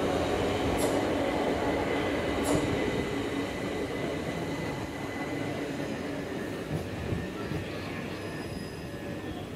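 Southeastern electric multiple-unit train slowing to a stop alongside the platform, its running noise dying away. A thin, steady squeal holds for a few seconds, and two sharp clicks come in the first few seconds.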